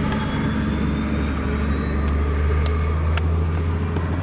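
A steady low hum of a running motor or engine, with a few light clicks.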